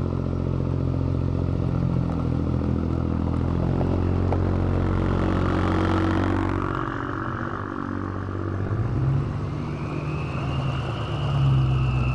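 Diesel pickup truck engine running steadily, with brief light rises in revs about three quarters of the way through and again near the end.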